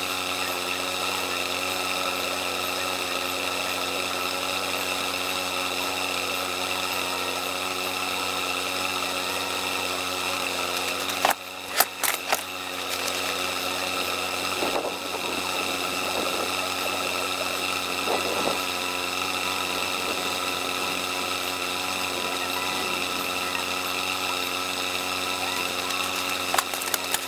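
Car engine running with a steady, unchanging hum, with a few short knocks about eleven to thirteen seconds in and again near the end.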